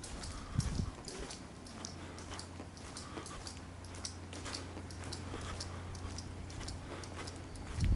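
Electric commuter train at a station: a steady low hum runs through, with scattered faint high ticks. Near the end a louder low rumble sets in.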